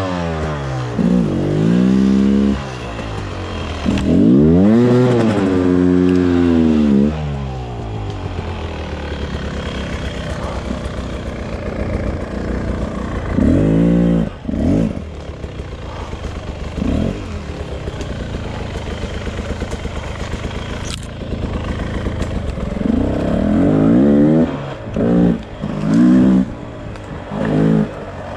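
Beta RR 300 single-cylinder two-stroke enduro engine revving up and falling back in repeated throttle bursts, over a lower steady engine note between them. Two longer rev-ups come in the first seven seconds, shorter blips follow at intervals, and a quick run of blips comes near the end.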